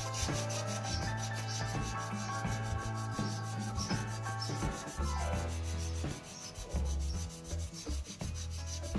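Sandpaper rubbing back and forth along a new wooden snooker cue shaft in quick, even strokes, over background music.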